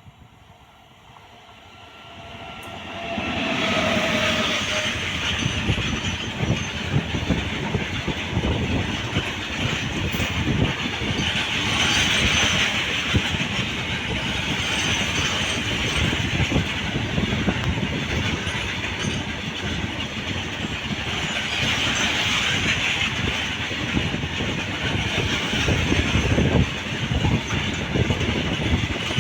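Train passing close by, its wheels clattering over the rail joints. It comes in about three seconds in and then stays loud and steady.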